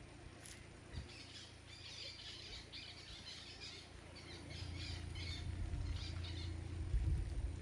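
Birds calling in rapid, chattering squawks through most of the clip. A low rumble builds underneath from about halfway in and becomes the loudest sound near the end.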